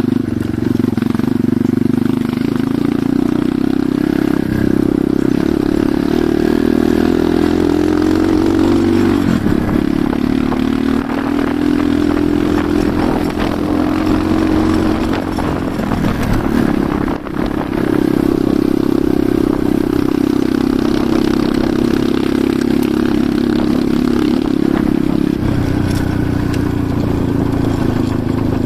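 Enduro motorcycle engine running while riding, its pitch rising and falling with the throttle, with a brief drop about seventeen seconds in.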